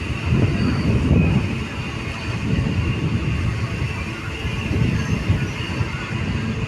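A train running on the rails with a steady, heavy rumble, and faint high wheel-squeal tones above it.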